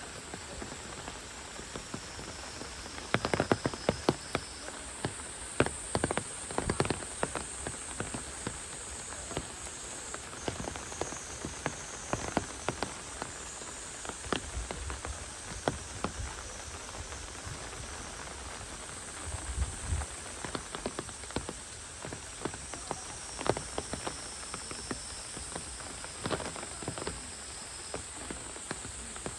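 Heavy rain falling steadily, with many sharp taps of individual drops landing close by, thickest a few seconds in.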